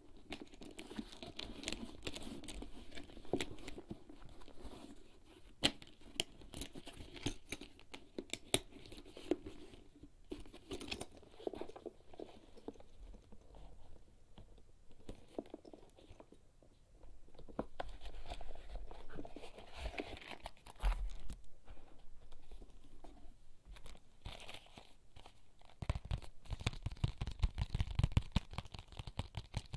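Close-up ASMR sounds of small everyday objects from a bag's contents being handled, scratched and tapped with the fingers: scratchy rustling and crinkling with sharp clicks, then a run of quick, low taps near the end.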